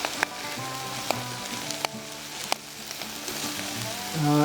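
Sauce-basted chicken sizzling on a grill grate over a campfire, with a few sharp pops of spitting fat.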